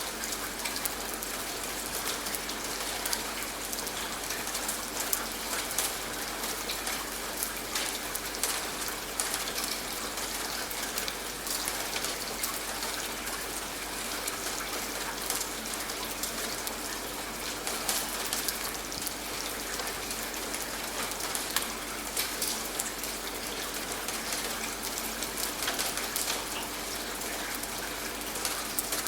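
Steady rain falling, with many sharp ticks of single drops hitting a surface over an even hiss.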